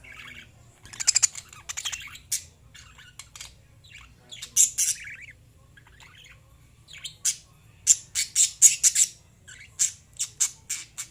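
Lovebirds chirping and squawking in short, high-pitched calls, scattered at first and then a quick run of calls in the second half.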